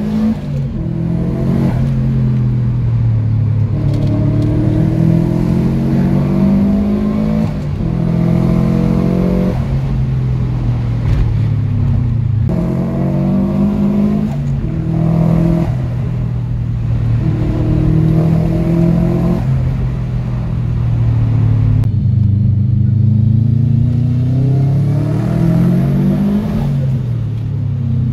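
A Subaru Impreza WRX GC8's turbocharged flat-four engine, with its new full 3-inch stainless steel exhaust, heard from inside the cabin while driving. It pulls up through the gears: the engine note climbs for a few seconds, then drops at each gear change, several times over.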